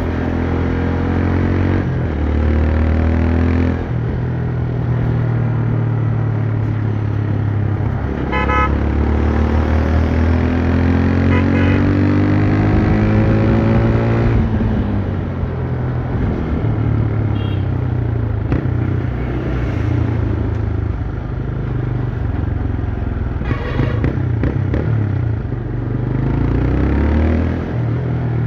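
TVS Raider 125's single-cylinder engine and exhaust under way, its pitch rising as it pulls through the gears and dropping at each upshift. Several short horn beeps are heard along the way.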